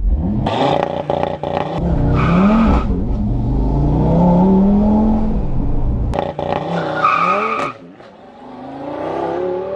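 Stage-one-tuned Audi RS3's turbocharged 2.5-litre five-cylinder engine at full throttle in a launch from a standstill, its pitch rising in steps through the gear changes, with short tyre squeals as the tyres spin and slide. Heard mostly from inside the cabin, then from the roadside as the car pulls away.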